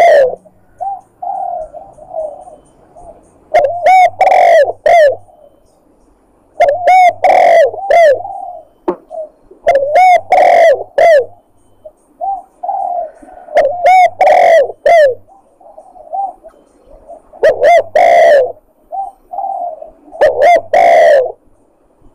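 Spotted dove (tekukur) cooing, a recorded lure call for bird hunting: loud coo phrases come every three to four seconds, with softer single coos between them.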